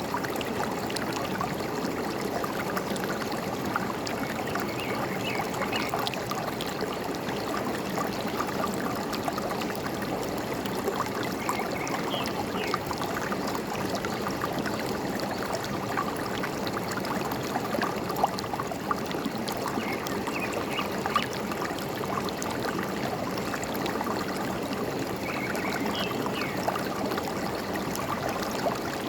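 Forest stream running steadily, a continuous trickling and gurgling of water over rocks. A few short bird chirps come in now and then above it.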